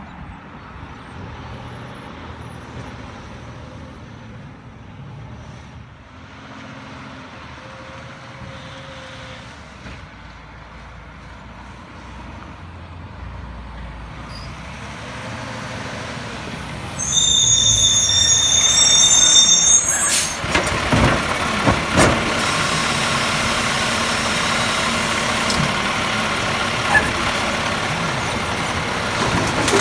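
Garbage truck running. A little past halfway it gives a high brake squeal lasting a few seconds, then it gets louder, with several sharp clunks and bangs.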